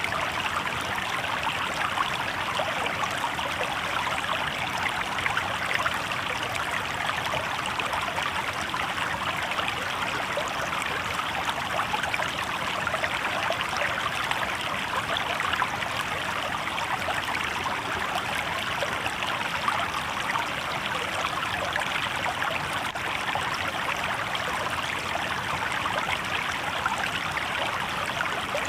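Shallow river water babbling over stones, a steady, unbroken rush with a fine splashing texture.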